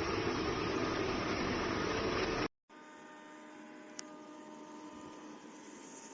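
Robot vacuum's suction fan and brushes running steadily close up, a loud even whirring noise. About two and a half seconds in it breaks off abruptly. After that only a faint steady hum remains, with a single sharp click about four seconds in.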